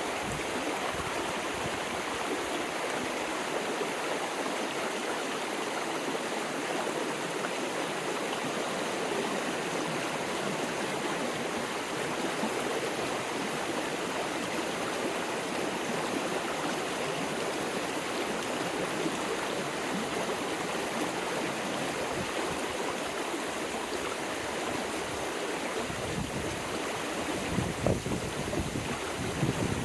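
Small mountain stream running steadily over stones, an even rush of water, with a few low thumps near the end.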